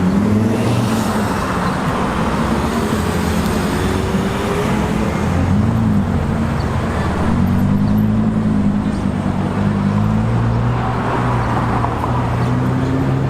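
Exotic sports car engines running at low revs in slow street traffic, their pitch drifting gently up and down over steady traffic noise.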